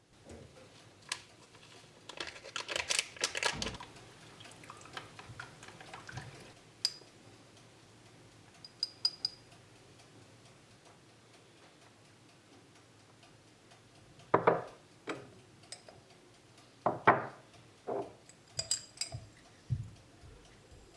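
Kitchen dishes and utensils being handled: a stretch of clattering, a few light ringing clinks, then several knocks near the end.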